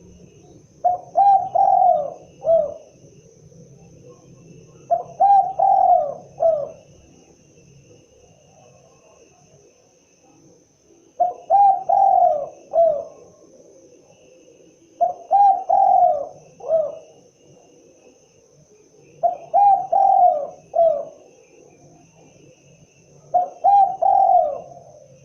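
Spotted dove (tekukur) cooing: six phrases of three or four coos each, repeated about every four seconds, with the last note of each phrase set a little apart. Faint steady insect chirring lies underneath.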